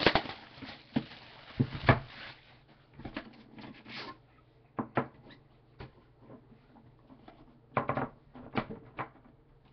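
Trading card boxes and packs being handled and opened by hand: scattered rustling, scraping and light knocks, loudest in the first two seconds and again near the end.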